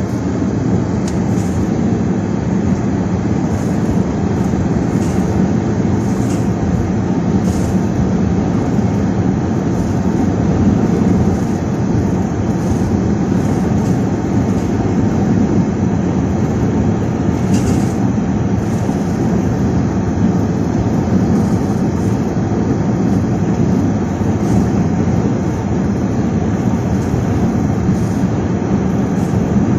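Strong gusting wind and the running noise of a vehicle on the move, heard together as a loud, steady rumble.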